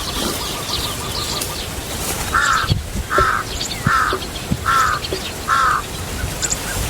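A bird calling five short calls in an even series, about three-quarters of a second apart, starting a couple of seconds in, with faint high chirps of small birds behind and a run of quick small notes near the end.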